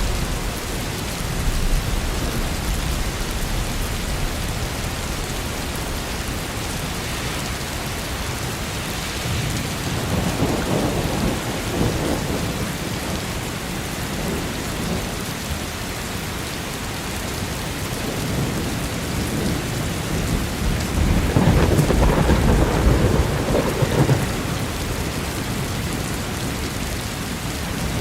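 Steady rain with rolling thunder. Low rumbles swell for a few seconds each, about a third of the way in and again past two-thirds of the way.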